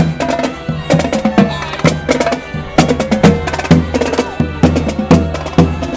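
Upbeat parade music with heavy drums and sharp percussion hits at a steady, driving beat, played loud over a cavalcade float's sound system.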